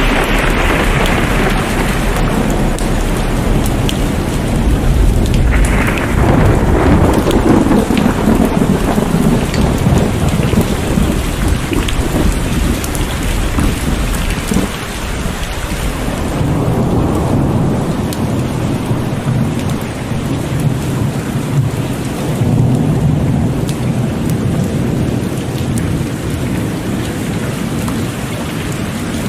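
Heavy rain pouring steadily, with thunder: a crack about five seconds in runs into a long low rumble, and the thunder rolls again later.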